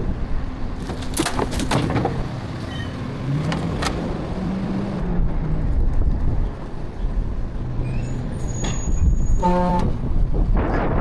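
Garbage truck engine running on the street, with scattered knocks. About nine and a half seconds in there is a brief horn-like toot.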